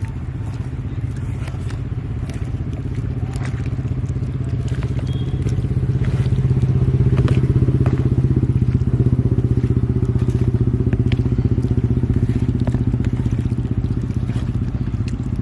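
An engine running steadily with a fast, even pulse. It gets louder about halfway through and then eases off, with a few small crunching clicks over it.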